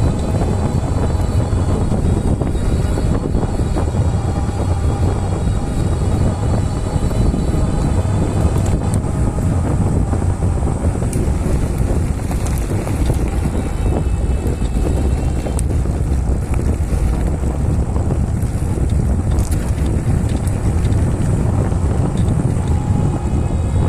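Wind buffeting the microphone over the tyre rumble of a Mukuta Knight e-bike being ridden, a steady low noise throughout, with faint whining tones near the start and the end.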